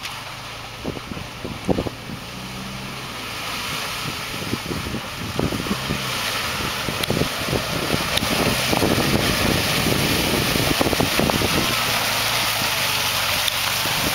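A 4x4 off-road vehicle's engine running hard under load, growing louder over the first several seconds, with irregular knocks and splashing noise and wind on the microphone.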